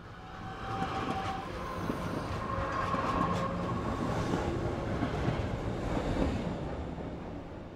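Electric suburban train running along an elevated track, heard from inside the carriage by an open window: a steady rumble of wheels on rail that swells over the first second and eases off near the end. Thin squealing tones from the wheels come and go in the first few seconds.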